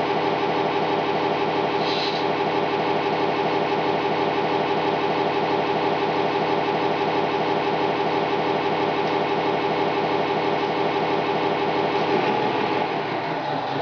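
Tamiya Scania RC model truck running, a steady engine-like hum. About three-quarters of the way through, the sound changes and gets a little quieter.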